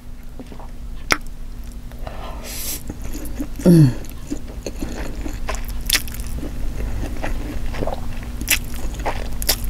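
Close-miked mouth sounds of someone eating black bean noodles: chewing with scattered wet clicks and smacks. A short hummed "mm" falls in pitch a little before halfway.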